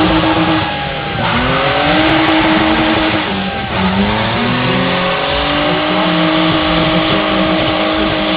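BMW car engine revving hard three times, then held at steady high revs for the last few seconds, while its rear tyres spin and squeal on the tarmac in a smoking burnout drift.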